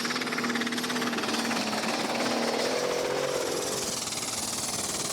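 Limited superstock pulling tractor's tuned diesel engine running flat out with a fast, hammering pulse as it drags the weight sledge down the track. A high whine starts to fall near the end.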